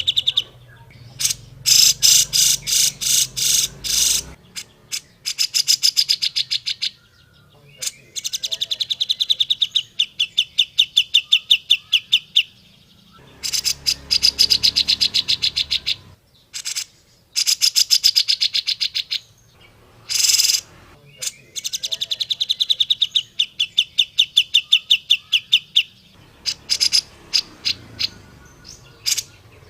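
Grey-cheeked bulbul (cucak jenggot) calling in repeated bursts of fast, chattering trills, each a few seconds long with short pauses between them.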